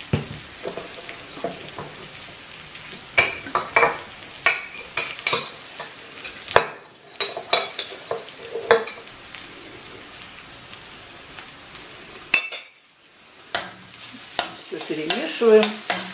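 Onions and ground spices frying in oil in a skillet, a steady sizzle, with a metal spoon knocking and scraping against the pan every second or so as they are stirred.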